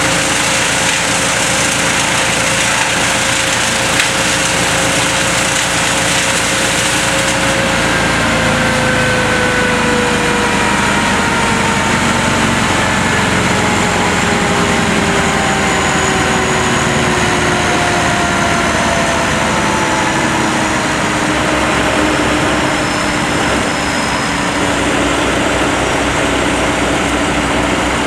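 A chainsaw running in a cut, its pitch slowly sinking under load, over the steady running of the bucket truck's engine.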